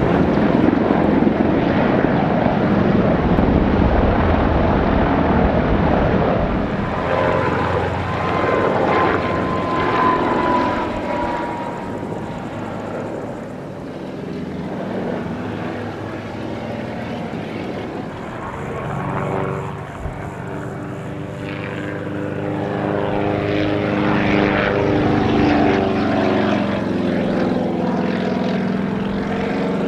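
A helicopter flying a display close by: a loud rush of rotor and engine noise that swells and fades as it manoeuvres, with its engine tones rising and falling in pitch during the last third.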